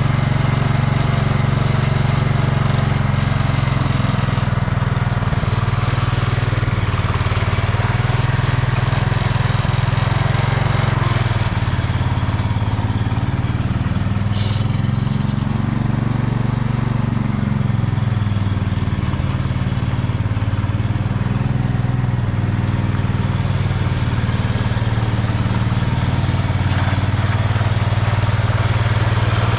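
Ford garden tractor engine running steadily, its pitch rising and falling once around the middle.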